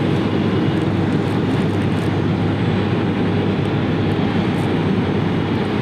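Steady rushing noise of aircraft engines running on the airfield, even and unbroken throughout.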